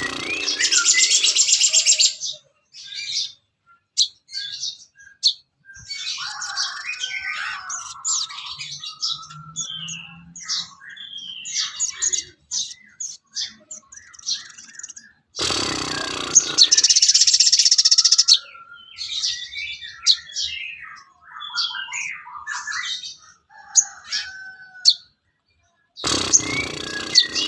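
Sogon bird singing a varied run of chirps, short whistles and trills. It is broken by three loud, harsh bursts of a second or two: one near the start, one in the middle and one near the end.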